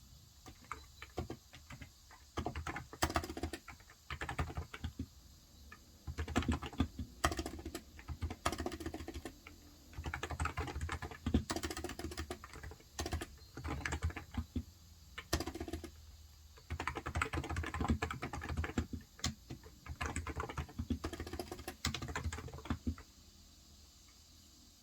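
Typing on a Cox Endeavour electro-capacitive (non-contact) tenkeyless keyboard with 35 g switches: runs of quick keystrokes broken by short pauses, stopping near the end.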